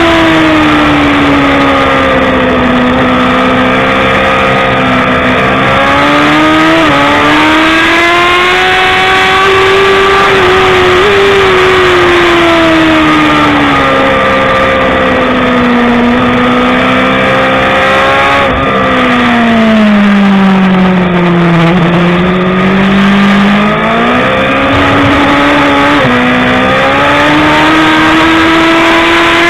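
BMW S1000RR inline-four sportbike engine at racing pace, its pitch climbing hard under throttle and sweeping down under braking, with several sudden steps at gear changes. The engine runs over a steady rush of noise.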